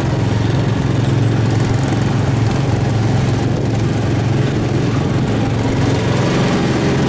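Small gasoline engine of a Tomorrowland Speedway ride car running steadily while being driven, a loud, even engine hum.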